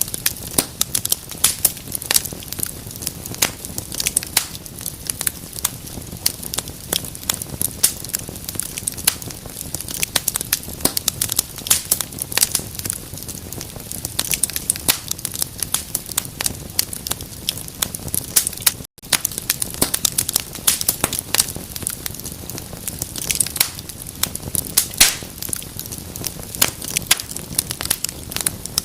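Wood fire in a fireplace crackling steadily, with a constant patter of sharp irregular pops and snaps over a low hiss. The sound cuts out for an instant about two-thirds of the way through.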